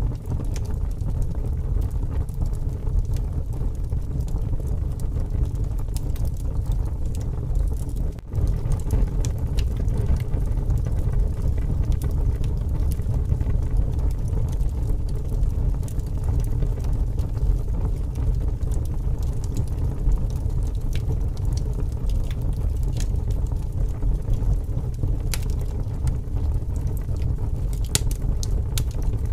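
Wood campfire burning in strong wind: a steady low rumble of gusting wind and flames, with scattered crackles and pops of burning logs.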